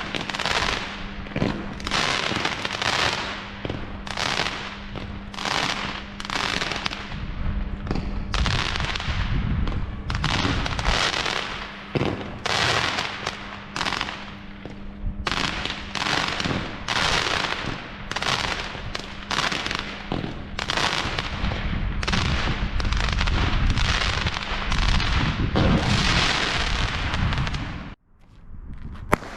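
Weco Flashback firework battery firing shot after shot, about one burst a second, each a sharp bang trailing off in a crackling hiss; it stops abruptly near the end.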